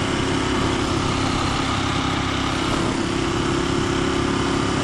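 Ducati Monster 1200 R's L-twin engine running steadily through a Termignoni exhaust, a continuous even engine note.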